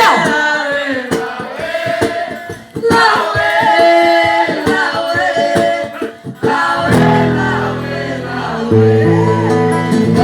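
Music with group singing: several voices sing over a strummed, rhythmic accompaniment, which changes about seven seconds in to held low notes.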